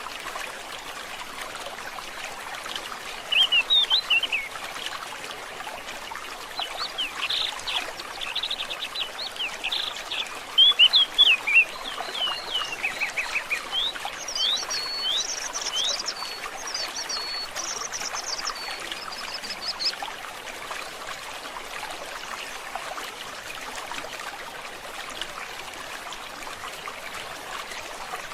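A forest stream trickling steadily, with songbirds chirping and trilling over it from a few seconds in; about halfway through, higher, quick repeated notes take over, and the birds fall silent about two-thirds of the way through, leaving only the water.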